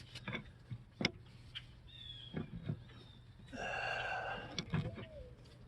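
Scattered light knocks and clicks of handling, with a brief creaking squeak lasting about a second partway through and a thin wavering squeal near the end.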